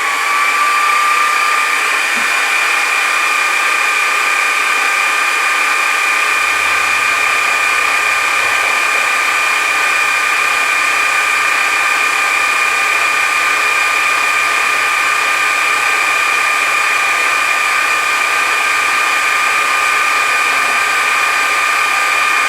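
Metal shaper's electric motor and drive running at speed with a steady, high-pitched whine.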